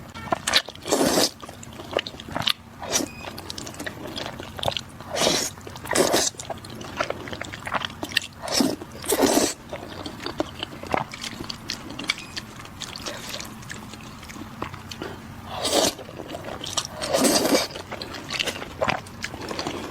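Close-miked eating: irregular bites and wet chewing, with louder mouthfuls every second or so and a quieter spell of soft chewing partway through.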